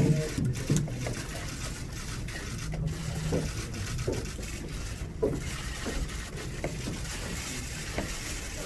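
Steady room noise of a press-conference hall, with a few faint, brief sounds of movement and low murmurs.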